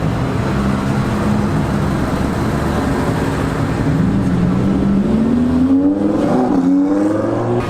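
A sports car's engine running and then accelerating, its pitch climbing steadily over the last few seconds.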